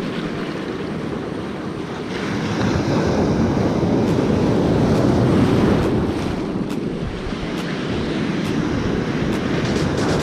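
Ocean surf washing onto a beach with wind buffeting the microphone. It is a steady rush that swells for a few seconds, eases, then builds again near the end.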